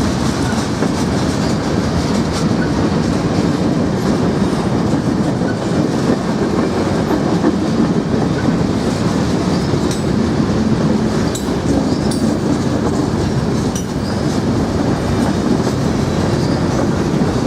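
Freight train passing close by, a steady rumble of rolling railcars with wheels clacking over the rail joints.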